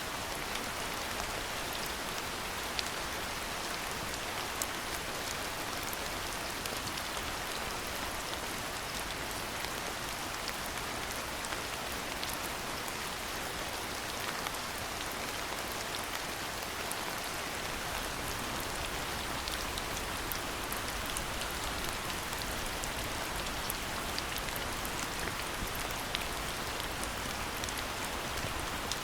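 Steady rain falling, an even hiss dotted with the sharp ticks of individual nearby drops.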